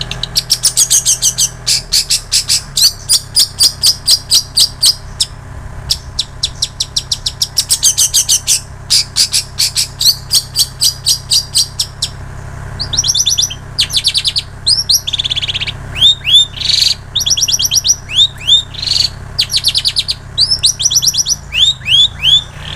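Long-tailed shrike (cendet) singing a mimicking song built from the calls of the plain prinia and the canary. Fast, high trains of sharp chirps, several a second with short breaks, give way about halfway through to runs of quick downward-slurred whistled notes.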